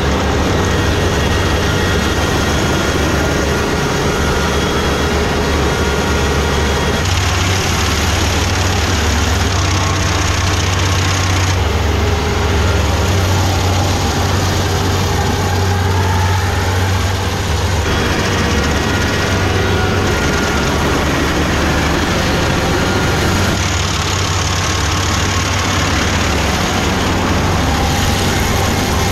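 A heavy engine running steadily with a strong low hum. Its sound shifts abruptly several times.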